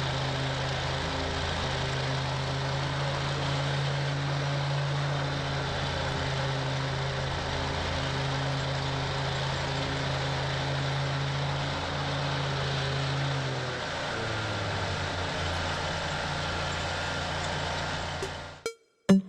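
Toro Grand Stand stand-on mower's engine running steadily under mowing load, its note dropping slightly about three quarters of the way through. The sound stops suddenly near the end.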